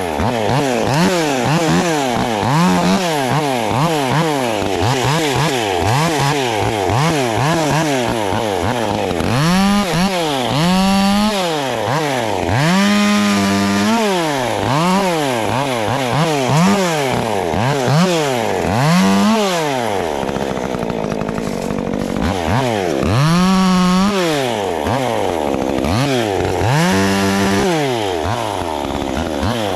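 Two-stroke chainsaw revving up and down again and again while making short marking cuts across a log. The engine pitch rises and falls in quick cycles at first, then in longer held revs, with a brief drop to a lower speed about two-thirds of the way through.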